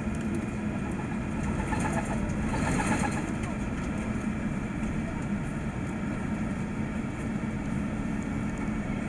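Airbus A380 engine and cabin noise heard from inside the passenger cabin: a steady hum and rush with several constant whining tones. A brief louder, hissier swell comes about two to three seconds in.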